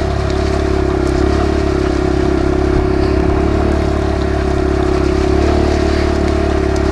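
Kawasaki KLX140 dirt bike's single-cylinder four-stroke engine running at a steady speed under way, holding one pitch throughout.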